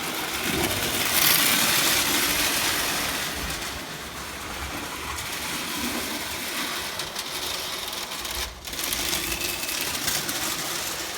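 Prewar Lionel O gauge electric toy train running on its track: a steady mechanical whir from the motor and wheels, swelling louder about a second in.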